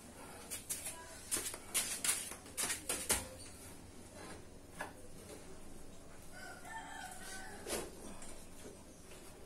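A quick run of sharp clicks and knocks in the first three seconds, then a rooster crows once about seven seconds in.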